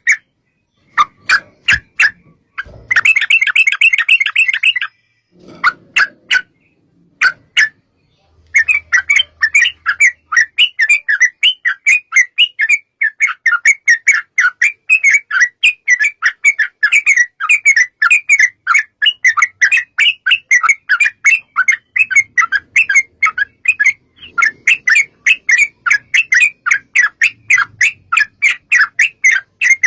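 Yellow-vented bulbul (trucukan) singing: a few short calls and one longer chattering phrase, then from about eight seconds in a long unbroken run of rapid, bubbling repeated notes, the extended 'ropel' song.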